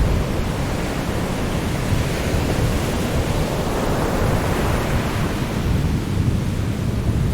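Sea waves breaking in a steady low wash of surf, with one wave swelling up and fading away a few seconds in.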